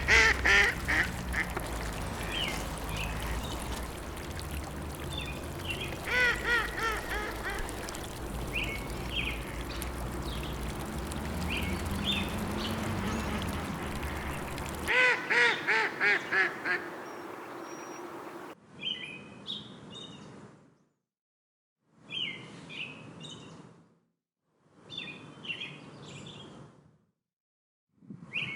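Ducks quacking in quick runs of several quacks over a steady background hiss. After about 19 seconds this gives way to short bursts of high small-bird chirping with silent gaps between them.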